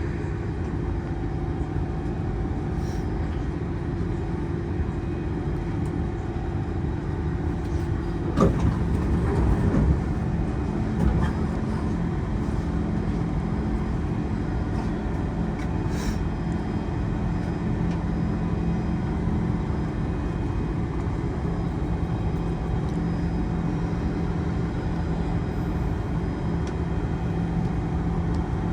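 Cabin sound of a Kawasaki C151 metro train: a steady low electrical and mechanical hum, with a short louder knock and clatter about eight seconds in.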